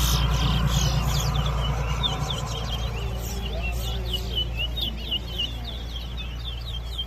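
Caged towa-towa finches singing in a competition, a quick run of short, sharp chirping notes repeated without a break. Each completed song counts toward the bird's tally.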